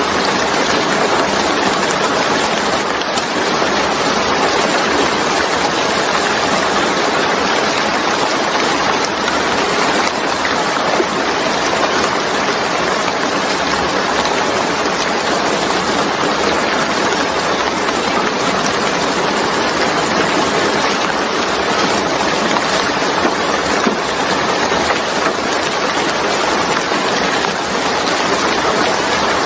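Steady, even rain falling, a dense hiss with no breaks.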